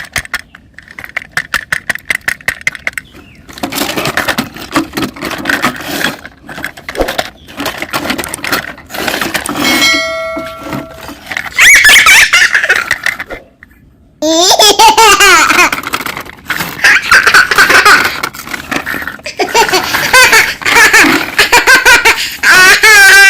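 A young child laughing repeatedly and loudly. Rapid clicking sounds in the first few seconds, and a short steady beep-like tone near the middle.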